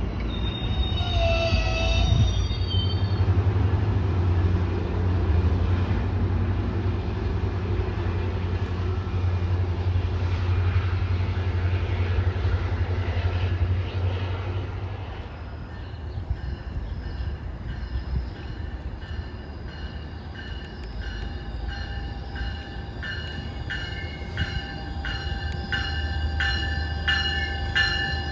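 Metrolink bilevel passenger train passing close by with a steady low rumble of wheels on rail and a brief high squeal or tone a second or two in. About halfway through, an arriving Metrolink locomotive's bell rings in regular strokes, about one and a half a second, over the low hum of its engine.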